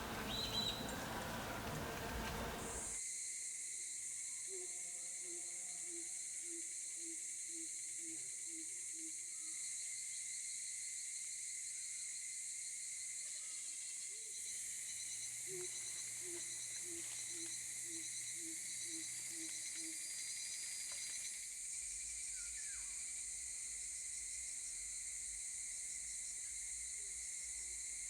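Black-hooded coucal giving two series of low, evenly spaced hoots, about two a second, over a steady high insect chorus.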